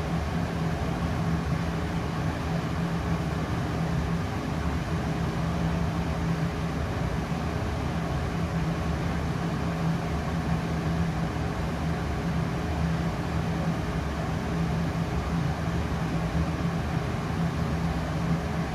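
Steady machine hum with a constant low drone from a Trotec Speedy 100 laser cutter setup running.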